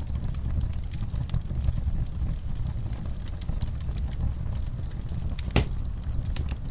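Wood fire burning in a fireplace: a steady low rumble of flames with scattered light crackles, and one louder pop about five and a half seconds in.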